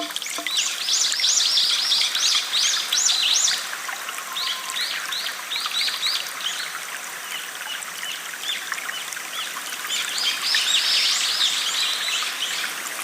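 Small stream trickling and flowing steadily, with a songbird giving quick runs of high, rapidly repeated chirps: loudest in the first few seconds, quieter in the middle, and loud again near the end.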